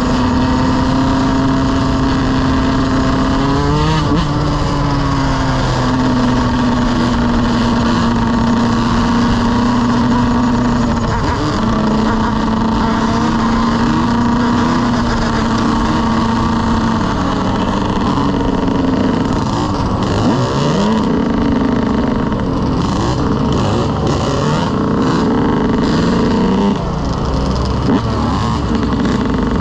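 Motorcycle engine running under way, its pitch holding steady for stretches and then shifting up and down several times with throttle changes.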